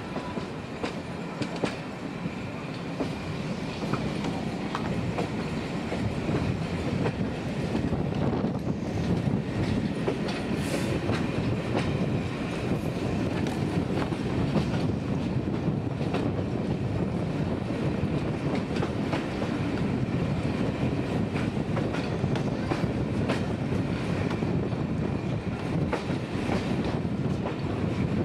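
Passenger coaches running along the track, heard from an open carriage window: a steady rumble of wheels on rail with irregular clicks from the rail joints, a little louder after a few seconds, and a faint steady high squeal from the wheels on the curve.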